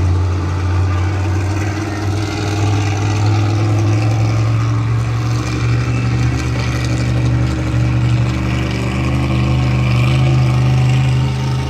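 Monster truck engine running loud and steady, a deep even note that swells slightly near the end.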